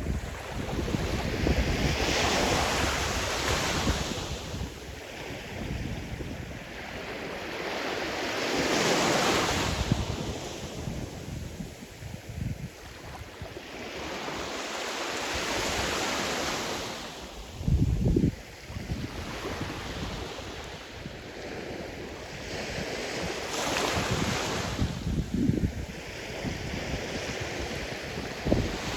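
Sea surf: waves breaking and washing up the shore, swelling and fading about every six to seven seconds. Gusts of wind buffet the microphone with short low rumbles, the strongest about eighteen seconds in.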